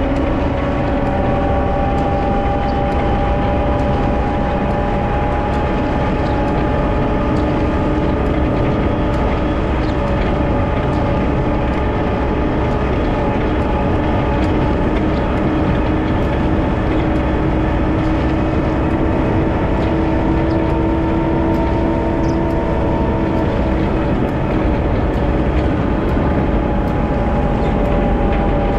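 Wheel loader's diesel engine running steadily while plowing snow, with a steady whine above the engine note that drifts slightly in pitch.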